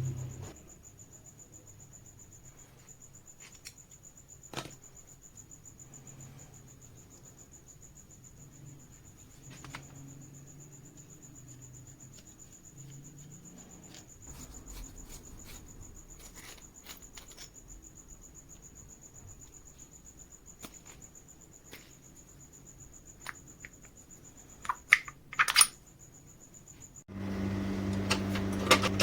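Scattered light clicks and metallic taps from handling tool parts, with a few louder clicks near the end. Then an electric motor, likely the drill having its bearing replaced, starts and runs with a steady hum.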